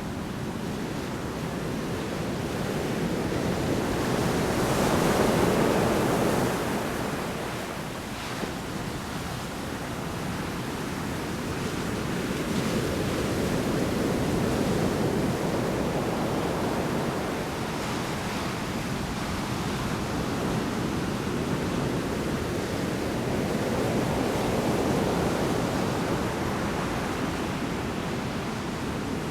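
Large storm waves breaking on the shore in continuous surf, swelling to a loud crash about five seconds in and to smaller surges later, with wind.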